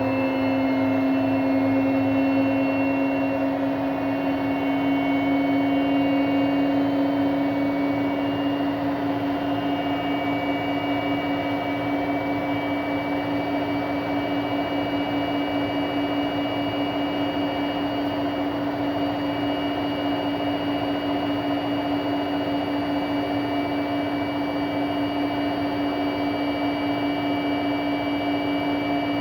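Arctic washing machine running in service mode with a steady mechanical drone: a strong hum with higher whining overtones, creeping slightly up in pitch. This is the bad noise the machine makes while in a suds-lock state.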